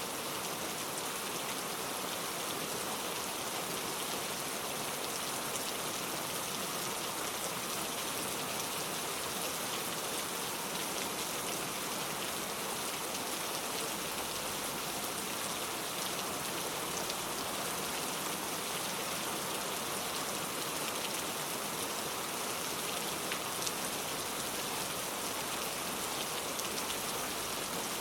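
Steady rain falling, with fine drops pattering on a surface, without thunder.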